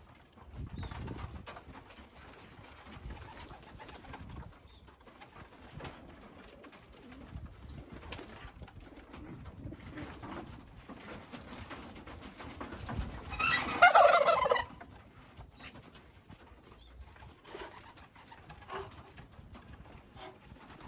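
Racing pigeons cooing softly, with a louder burst of sound lasting about a second, about thirteen seconds in.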